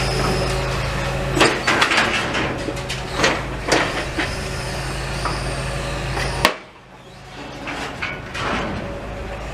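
A heavy engine running steadily, with scattered knocks and clatter over it. A sharp click about two-thirds of the way through cuts it off suddenly, leaving quieter street noise.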